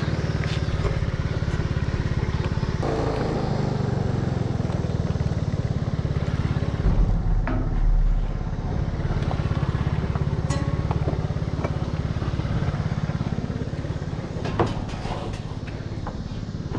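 Vehicle engine running steadily with a low hum, with a few scattered knocks and clicks and a heavier low thump about seven to eight seconds in.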